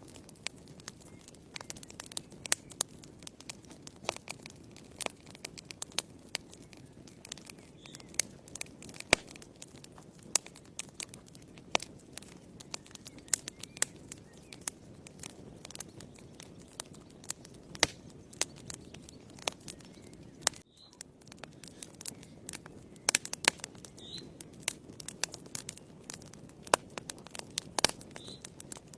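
Wood fire burning in a fireplace, crackling with many irregular sharp pops and snaps over a soft, steady low hiss of the flames.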